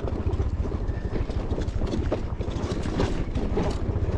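Footsteps crunching and knocking irregularly over rough, rocky ground, with wind buffeting the microphone in a steady low rumble.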